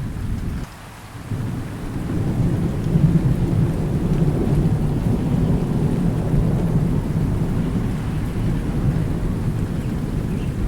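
Steady rain with a long, low roll of thunder that swells about two seconds in and rumbles on. The sound dips sharply for about half a second near the start.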